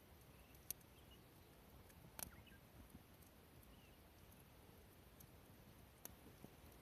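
Near silence: quiet outdoor air broken by three faint sharp clicks, the middle one the loudest, and a few faint, short high chirps.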